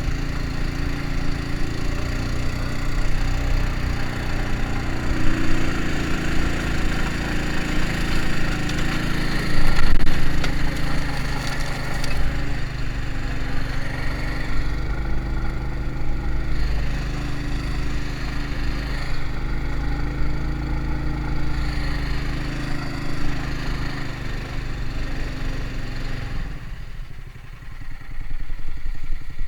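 A karakat's small engine running steadily as the vehicle drives. Near the end the engine sound dies down briefly, then picks up again.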